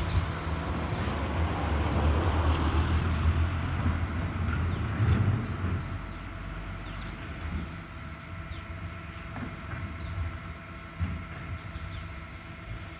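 Garbage truck's engine running, with a few steady whining tones over the low drone. It is louder for the first five seconds or so, then eases to a lower, steady running, with a few knocks.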